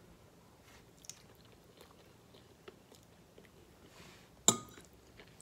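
Quiet close-up chewing of a mouthful of spaghetti, with faint small wet mouth clicks, and one sharp click about four and a half seconds in.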